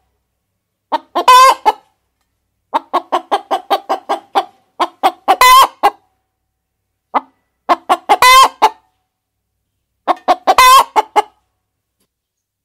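Hen cackling: runs of quick clucks, each ending in a loud, drawn-out squawk, four times over.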